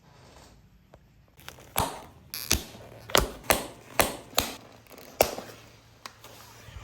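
About ten sharp clacks and knocks, irregularly spaced, of hard objects striking or snapping together, over a faint low hum.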